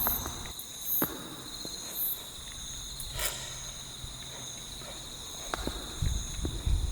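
Insects trilling steadily in a high, unbroken chorus, with a few short clicks and some low knocks near the end.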